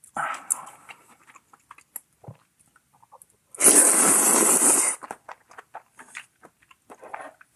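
Close-miked eating sounds: small wet chewing and crunching clicks throughout, and one loud slurp of kalguksu noodles lasting about a second and a half near the middle.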